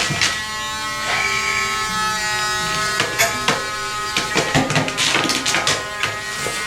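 Battery-powered dog nail grinder running with a steady buzz as it works a small dog's nails, with scattered clicks and knocks from about three seconds in.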